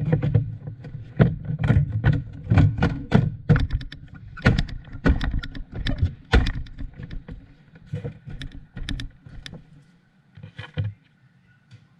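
Irregular knocks and clattering, as of hard parts being handled and set down, over a low rumble. They thin out and stop shortly before the end.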